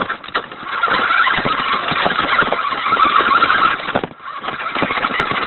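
Radio-controlled toy Hummer driving hard: a steady motor and gear whine over a dense crackle of its tyres on the ground. It drops out briefly about four seconds in, then starts again.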